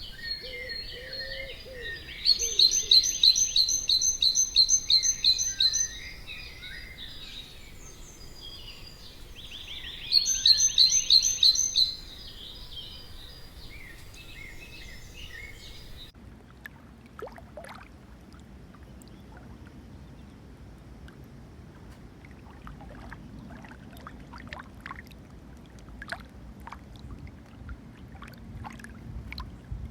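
A songbird sings two loud runs of rapid, evenly repeated high notes. About halfway through, the sound changes abruptly to a low rush of water with scattered small splashes and drips, as from a canoe being paddled.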